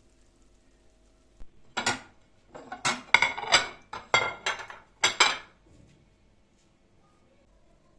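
Dishes and cutlery clinking and knocking together in a quick run of about a dozen sharp, ringing clinks starting about two seconds in and stopping a little after five seconds.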